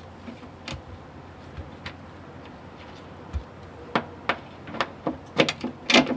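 Scattered sharp metallic clicks and taps from hand tools and parts being handled while the oil drain plug is refitted, a few at first, then a denser run of clicks over the last two seconds.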